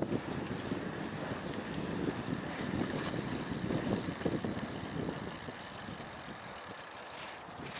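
Wind rushing over an action camera's microphone along with road noise from a moving road bike, a steady fluctuating rush.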